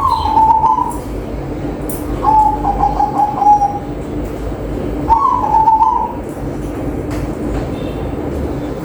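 Zebra dove (perkutut) cooing: three phrases about two to three seconds apart, the middle one a quick stuttering run of notes, over a steady low hum.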